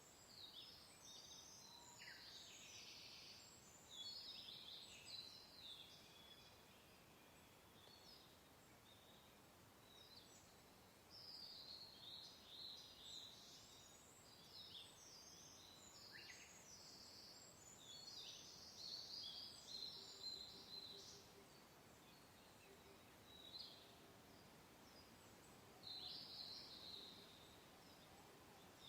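Several birds chirping and singing faintly in short phrases on and off, over a soft, steady wind hiss.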